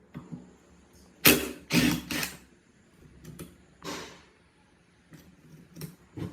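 Several sharp metal clanks and knocks with a short ring, as parts of an old rusty water pump are handled, the three loudest close together about a second in and lighter taps after.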